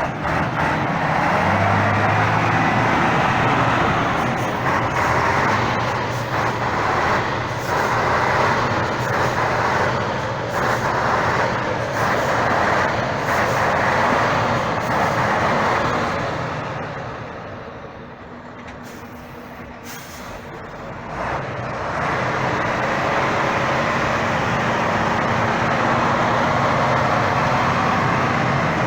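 Heavy competition trial truck's engine running hard under load. It falls away for a few seconds about two-thirds of the way through, then picks up again.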